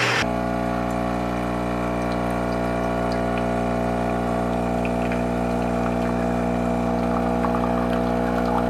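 Automatic coffee machine's pump humming steadily as it pushes water through to brew, straight after the built-in grinder has run.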